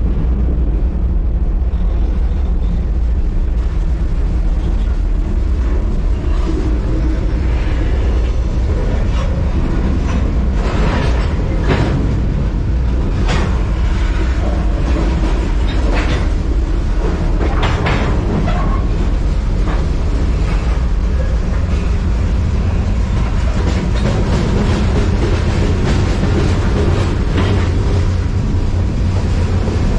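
Moving freight train heard up close: a continuous heavy low rumble of wheels on rail, with several brief clanks and rattles in the middle.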